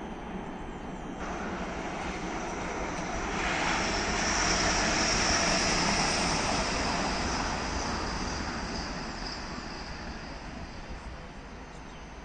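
A large vehicle passing by: a broad rushing noise with a high steady whine, swelling to a peak about four to six seconds in and then fading away.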